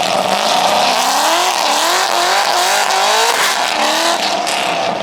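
A car doing donuts: the engine revving hard, its pitch rising and falling in quick waves, with the tyres squealing over it.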